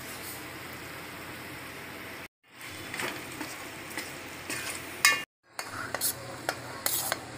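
Chicken and masala sizzling in hot oil in a metal pot while a spatula stirs them, scraping and clicking against the pot. The sound breaks off briefly twice.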